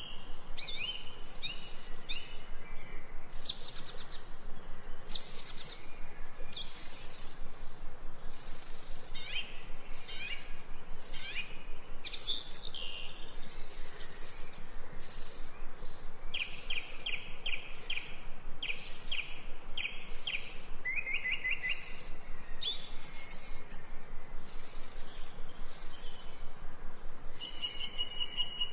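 Ambient birdsong: several songbirds chirping, trilling and whistling in short high calls, with a quick run of repeated chirps about two-thirds of the way through.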